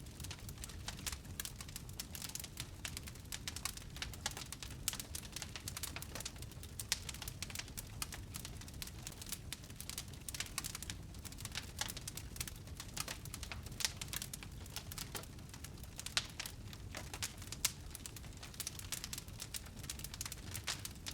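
Wood fire burning in a fireplace, with a steady low rumble and dense, irregular crackles and pops throughout.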